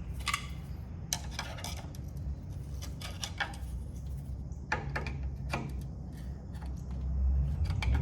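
Metal tools and suspension parts clinking and clanking as a part is worked loose: a handful of sharp metallic clinks spread through, over a steady low hum.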